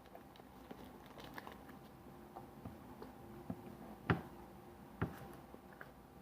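Faint chewing and crunching of a peanut-covered caramel candy bar, with small crackles throughout and two sharper crunches about four and five seconds in.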